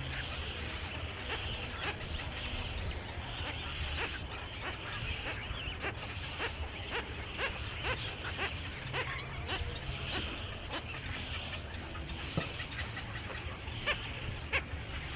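Many small birds chirping and chattering together in a continuous mix of short sharp calls, over a steady low rumble.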